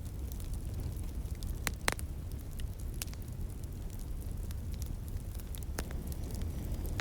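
Wood fire crackling, with scattered sharp pops (the loudest a close pair about two seconds in) over a steady low rumble.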